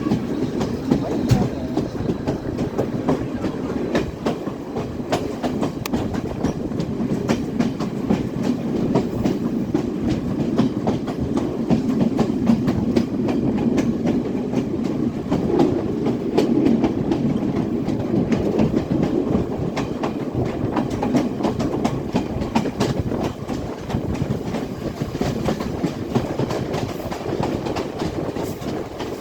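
Class S12 diesel multiple unit running along the line: a steady rumble with frequent clicks and knocks of the wheels over the rails.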